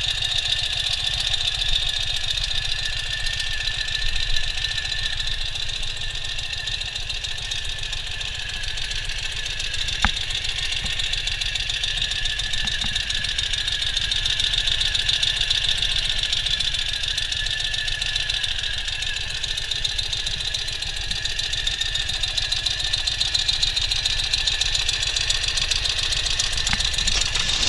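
Ural Classic sidecar motorcycle's air-cooled flat-twin engine running steadily, with one sharp click about ten seconds in.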